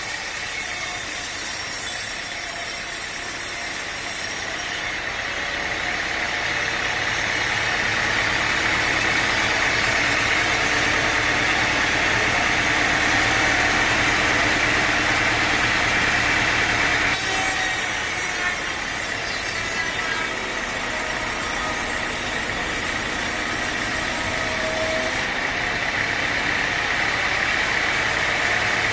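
A sawmill blade cutting through teak wood, with the mill's motor running under it. The cutting is loudest through the middle, eases off briefly about two thirds of the way in, then picks up again.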